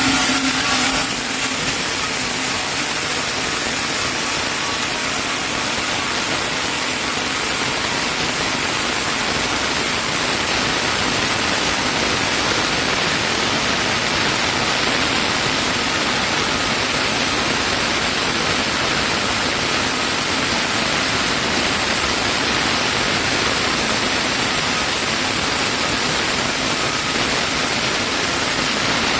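Sawmill saw cutting through a chinaberry log with a steady, loud hiss; a faint motor hum drops away about a second in.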